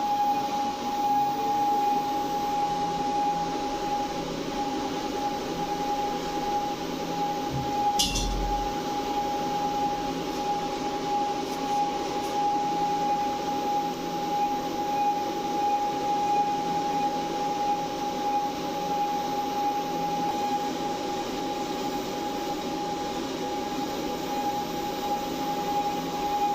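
Servo motor driving a gearbox speed reducer, running steadily on a post-repair sound test: a constant high whine over an even mechanical hum. A single sharp click about eight seconds in.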